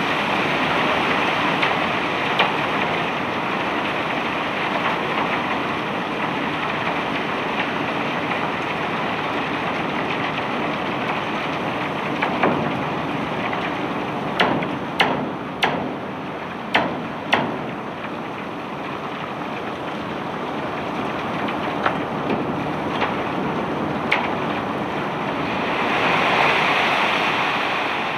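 Cobblestones being unloaded from a barge: a steady rushing noise, with a quick cluster of sharp stone knocks about halfway through and a few single knocks elsewhere.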